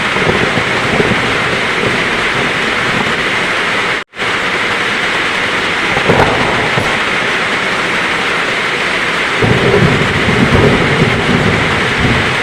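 Heavy rain falling steadily, with a low rumble of thunder rising about three quarters of the way in. The sound cuts out for a split second about a third of the way in.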